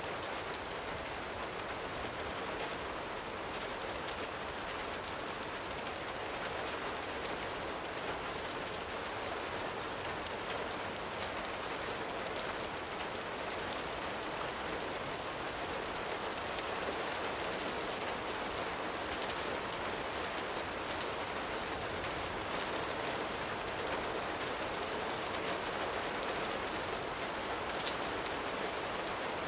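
Steady gentle rain falling, an even hiss with many scattered sharp ticks and crackles through it.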